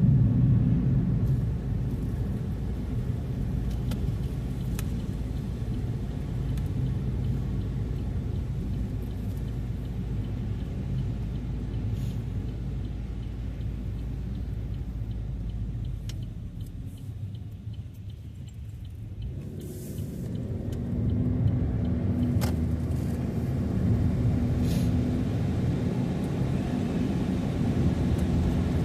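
Car driving, heard from inside: a steady low rumble of engine and tyres on the road. It fades away about halfway through as the car slows, then builds back up a few seconds later as it picks up speed again.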